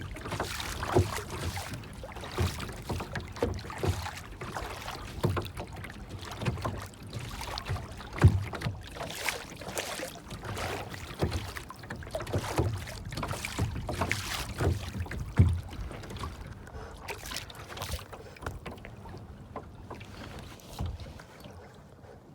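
Water lapping and splashing in irregular bursts with low thuds, like water slapping against a small boat, fading out near the end.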